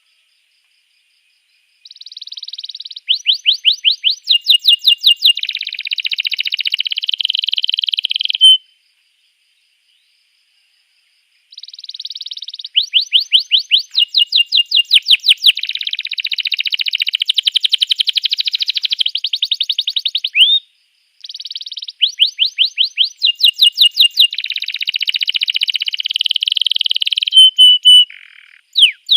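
Domestic canary singing: three long song bouts of rapidly repeated high notes running into fast trills, separated by a few seconds of silence.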